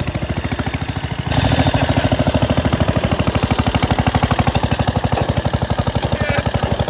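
Cub Cadet lawn tractor engine running flat out with its governor wired open, a rapid, even stream of loud firing pulses that gets louder about a second in: the engine is being deliberately over-revved to blow it up.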